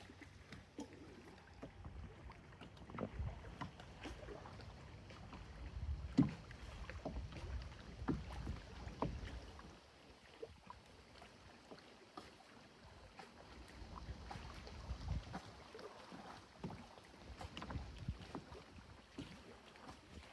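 Canoe on the lake: water splashing and lapping, with irregular light knocks and bumps against the hull.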